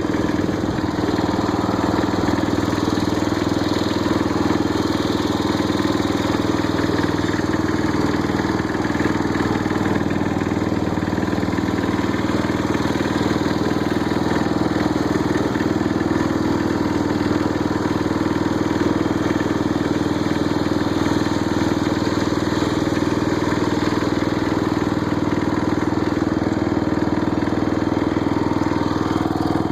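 Old Snapper rear-engine riding mower's engine running at a steady speed as the mower is driven, a constant drone with no change in pitch. The engine had been stuck and freed up, and the owner judges that it doesn't sound too bad.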